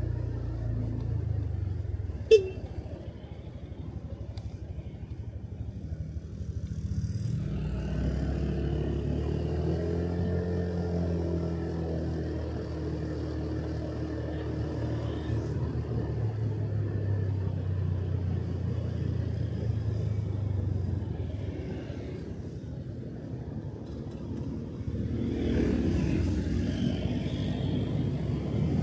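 Motorcycle engine running on the road, easing off twice and picking up again with its pitch rising, with one sharp click a couple of seconds in.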